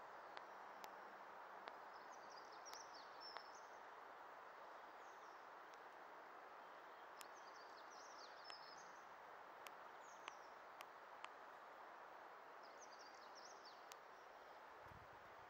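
Faint small-bird twittering in three short bouts over a steady background hiss, with a few faint ticks scattered through.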